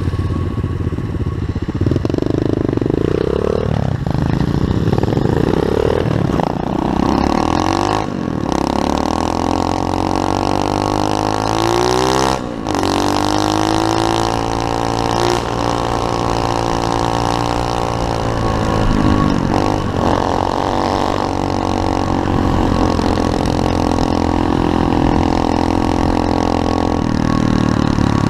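SSR 125cc semi-automatic pit bike's single-cylinder four-stroke engine being ridden hard, its note rising and falling with the throttle through the gears. There are two brief cuts in the sound, about a third of the way in and near the middle.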